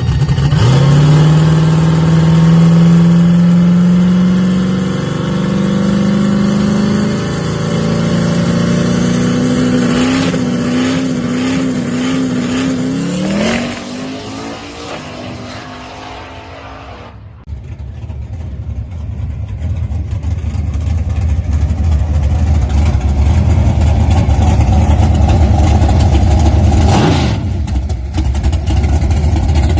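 Race car engine at full throttle accelerating away, its pitch climbing in steps through several gear changes and then fading into the distance. A steady low engine rumble follows, with a brief pitch sweep near the end.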